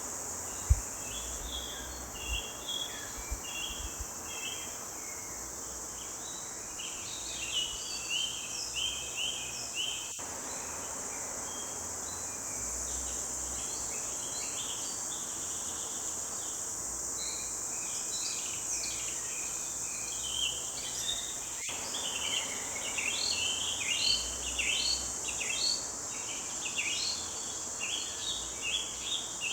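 Forest birds chirping and singing in many short phrases, busier in the second half, over a steady high-pitched insect drone. A brief low thump sounds about a second in.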